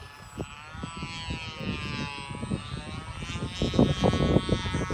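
Model aeroplane's motor and propeller whining in flight, the pitch dipping and rising as the throttle changes, with wind buffeting the microphone and growing louder near the end.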